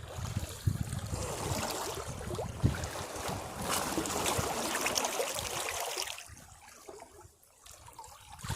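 Sea waves breaking against rocks: a wave washes in with rushing and splashing water for about six seconds, then drains away and quiets before the next wave surges in near the end.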